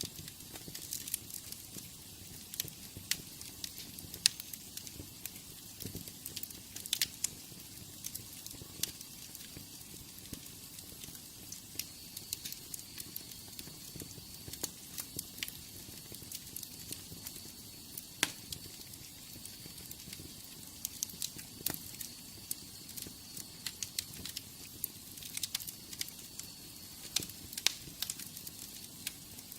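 Wood fire in a fireplace crackling, with irregular sharp pops and snaps over a soft steady hiss of flame. A faint, thin, high steady tone runs through the middle.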